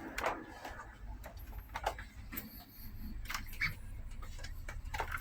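Scattered light clicks and taps, irregular, with a low rumble underneath.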